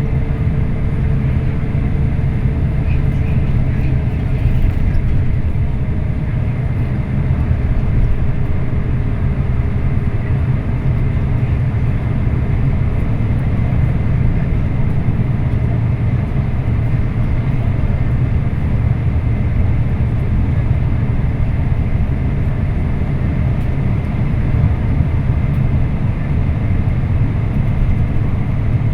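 Scania K340IB coach driving, a steady low engine and road rumble heard from on board.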